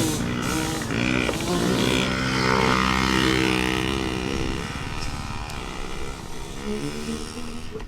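Small 50cc dirt bike engines buzzing, their pitch rising and falling as riders throttle on and off.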